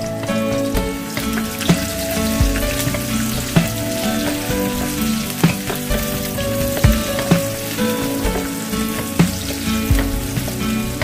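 Chopped onion and garlic sizzling as they fry in oil in a metal wok, stirred with a wooden spatula that knocks against the pan every second or two.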